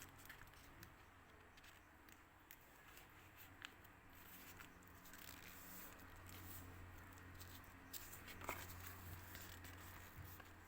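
Faint rustling and crackling of a paper sheet being handled and creased while it is folded, with a sharper crinkle about eight and a half seconds in and a low hum underneath in the second half.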